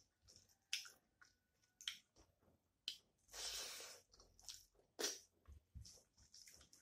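Mouth sounds of someone eating rice and curry by hand: scattered wet chewing clicks and lip smacks, with a longer soft rush a little past three seconds in.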